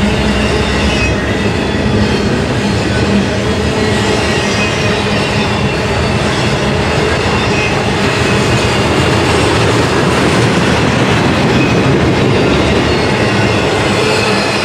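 Norfolk Southern intermodal container train's cars rolling past at close range, a loud, steady noise of steel wheels on the rails.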